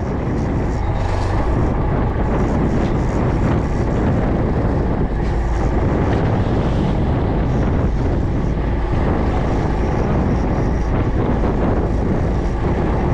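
Fishing boat at sea: a steady engine drone with wind and water noise on the microphone.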